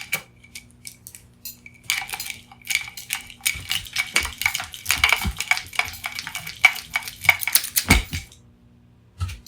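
Quick run of small metallic clicks and rattles as scissors and tangled cords with plugs are handled, ending in a dull knock about eight seconds in.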